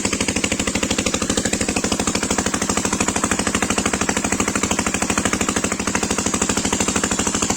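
A motor running steadily and very loud close by, with a rapid, even thumping of about a dozen beats a second.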